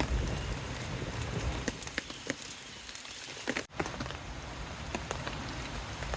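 Rain pattering steadily, with scattered separate drips ticking over it.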